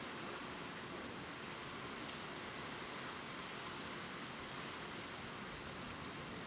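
Gentle rain pattering steadily on leaves, an even hiss of fine drops with an occasional sharper single drop, one near the end.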